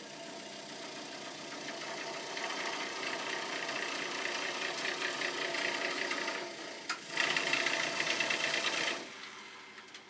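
Vaillant VC 254/2 XEH gas boiler rattling rapidly, building up over several seconds, then a sharp click and a louder, harsher burst of rattling that stops abruptly about a second before the end. The owner is unsure whether it is boiling in the heat exchanger, because the boiler cannot get its heat away, or the circulating pump rattling.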